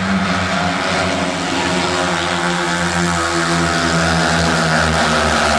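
Several speedway bikes racing together, their 500cc single-cylinder methanol engines running at high revs in a dense, steady drone whose pitch shifts as the riders go through the bend.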